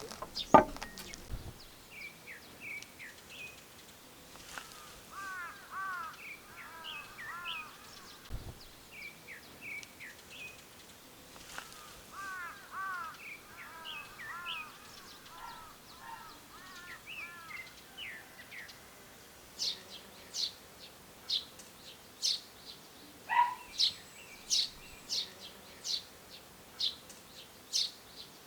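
Wild birds calling: runs of short chirping notes, then from about two-thirds of the way through a series of sharp, high repeated notes at about one and a half per second. A single sharp knock about half a second in is the loudest sound.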